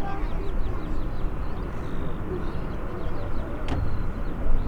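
Steady low rumble of a jet airliner's engines heard from the airport perimeter, with a single sharp click near the end.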